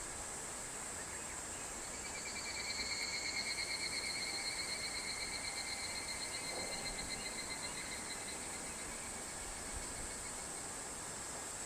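A higurashi (evening cicada) calls in a fast pulsing 'kana-kana' trill that starts about two seconds in, peaks quickly, then fades away over several seconds. Under it is a steady high-pitched chorus of insects.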